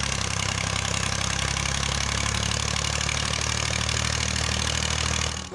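Massey Ferguson MF 240 tractor's three-cylinder diesel engine running steadily with a rapid, even diesel clatter; it cuts off suddenly near the end.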